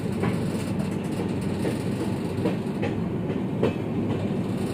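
Shatabdi Express coach running along the track, heard through an open door: a steady rumble of wheels on rails, with a few short clacks from the wheels passing over rail joints.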